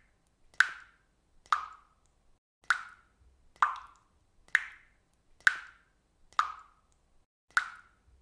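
Water dripping from a faucet, each drop landing with a clear plop at a slow, even pace of about one a second: eight drops in all.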